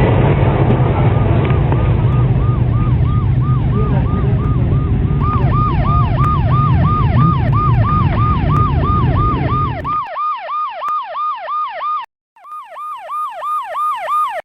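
Police car siren in a fast yelp, about three to four sweeps a second, growing louder over a heavy vehicle and road rumble. The rumble drops away about ten seconds in, leaving the siren alone. The siren cuts out briefly near the end and then resumes.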